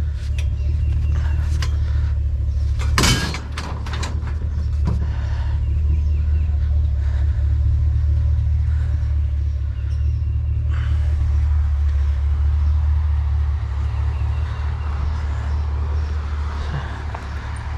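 Truck engine running, a steady low rumble, with a short loud knock about three seconds in.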